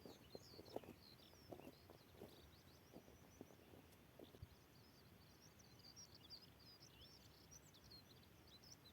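Faint birdsong: many quick high chirps and twitters through the whole stretch, with a few soft taps in the first few seconds.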